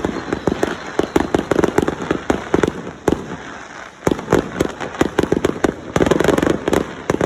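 Fireworks going off: rapid cracks and bangs in quick succession, thinning out briefly about three seconds in, then coming thick again near the end.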